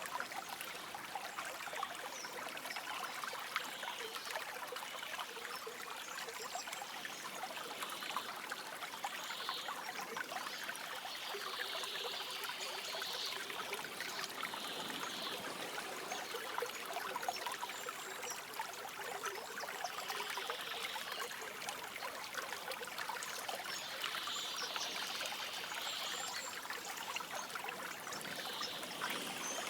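Stream water trickling and babbling steadily, with short bursts of faint birdsong every few seconds.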